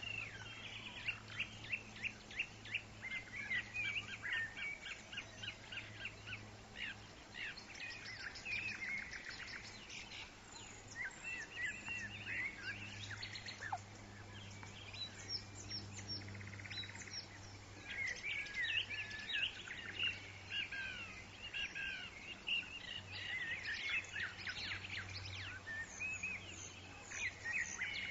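Several small birds chirping and singing in overlapping rapid trills and short high calls, over a faint steady low hum.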